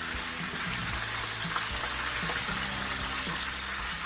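Breaded chicken breasts frying in hot oil, a steady sizzle.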